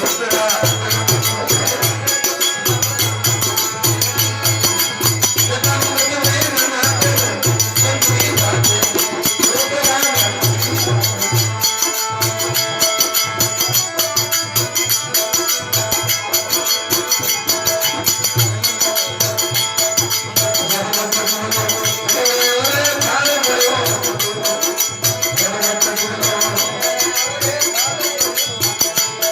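Aarti devotional music: a fast, steady metallic jingling rhythm with a pulsing drumbeat underneath and a wavering melody line.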